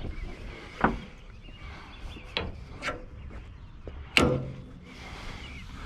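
Cord rubbing as it is threaded into a loop through a piece of scrap, with several sharp knocks from the scrap being handled. The loudest knock comes about four seconds in.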